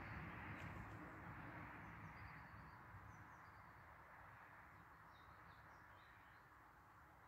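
Faint, scattered bird chirps over a soft hiss that slowly fades away.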